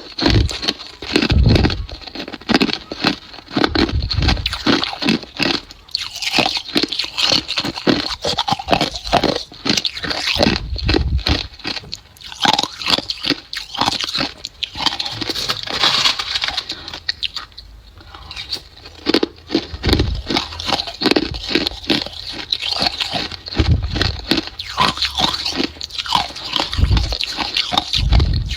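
Ice being bitten and chewed close to the microphone: a continuous run of loud, irregular crunches with dull low thuds from the jaw every second or two.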